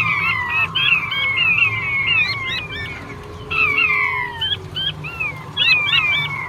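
Male puyuh batu (blue-breasted quail) calling: many short whistled notes, each sliding down in pitch, coming in quick overlapping runs, with a low steady hum beneath.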